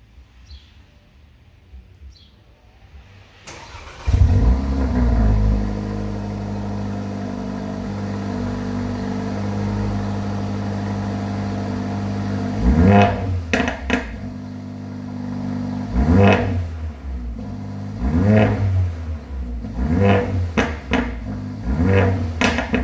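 Mercedes-AMG A45's turbocharged 2.0-litre four-cylinder cold-starting about four seconds in with a loud flare. It settles into a steady high cold idle, then is revved in a series of short throttle blips through the exhaust set to Sport+.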